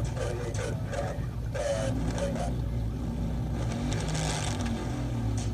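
Steady motor-vehicle engine and road noise from a car in motion. There are a few faint pitched sounds in the first two seconds or so, and a brief hiss about four seconds in.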